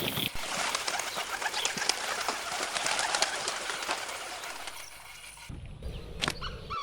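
A flock of birds chattering and calling, a dense mass of short chirps that thins out after about four seconds.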